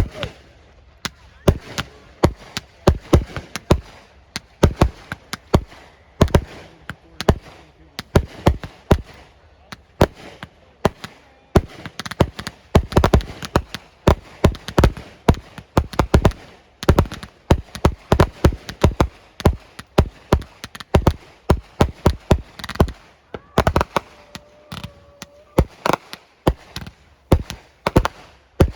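Aerial fireworks bursting in quick succession, several bangs a second, with the densest and loudest cluster around the middle.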